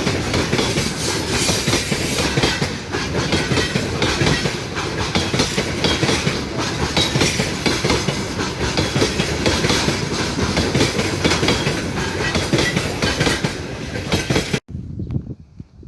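Train rolling past close by, its wheels clicking over the rail joints in a dense, steady clatter. The sound cuts off abruptly about a second before the end, leaving a much quieter background.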